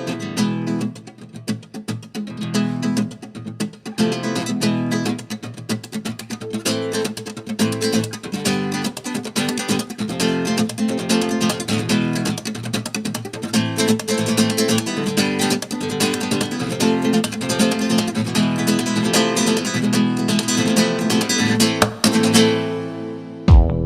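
Flamenco acoustic guitar playing, with fast strumming and picking. Near the very end it cuts to an electronic track with a steady heavy beat.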